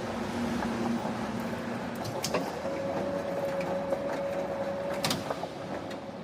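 Factory machinery running with a steady noisy hum and a held tone that steps up in pitch a little over two seconds in. Two sharp knocks come at about two and five seconds in.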